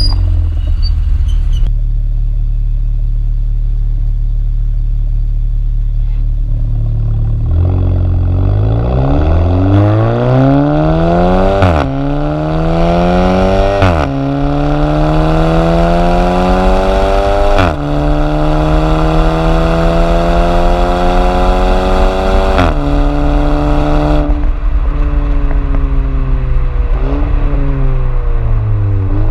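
Volkswagen GTI's turbocharged 1.8 TSI four-cylinder engine through an aftermarket custom exhaust, under hard acceleration. The pitch climbs and drops sharply at each of four upshifts, then falls away as the throttle is lifted, with a short blip near the end.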